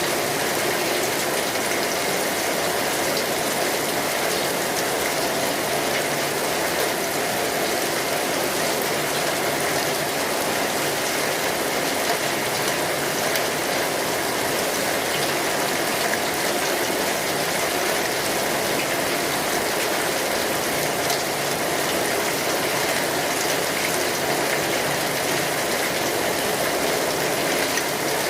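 Steady rainfall, an even hiss of drops with fine pattering throughout.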